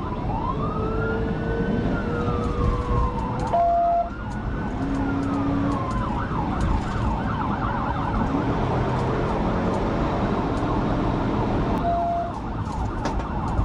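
Police car siren on a pursuing patrol car, with two slow rising-and-falling wails and then a fast yelp starting about six seconds in, over the road and engine noise of the car at speed.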